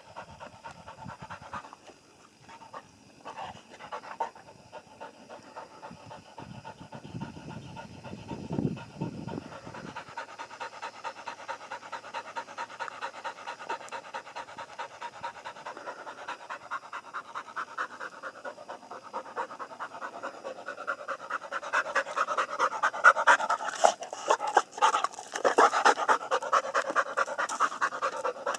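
Pigs feeding: a dense run of rapid grunting, snuffling and chewing sounds that grows louder about two-thirds of the way through.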